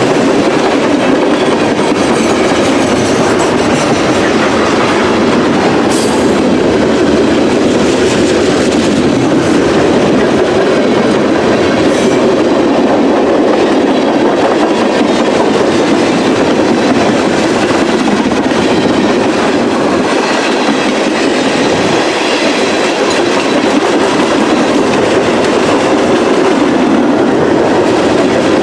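Freight train rolling past, a steady loud rumble of steel wheels on rail, with a couple of sharp clacks over rail joints.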